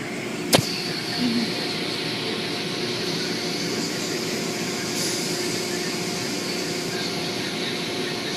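Automatic car wash machinery running steadily: a continuous rushing noise with a steady hum through it, and one sharp click about half a second in.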